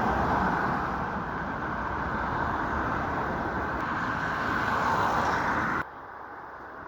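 Steady road traffic noise, dropping suddenly to a quieter hiss about six seconds in.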